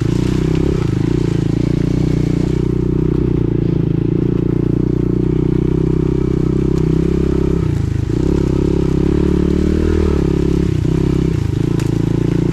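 Pit bike's small single-cylinder engine running at a steady low speed while ridden, with brief dips in engine speed as the throttle is eased about eight seconds in and again near the end.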